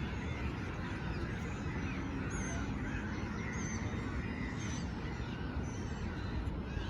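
Breeze rumbling on the microphone, with many birds chirping and calling over it in short repeated notes.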